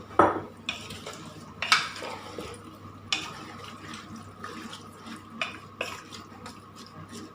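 Water being poured into a pressure cooker of chicken and spices, with several sharp knocks and clinks of metal against the pot, the loudest just after the start.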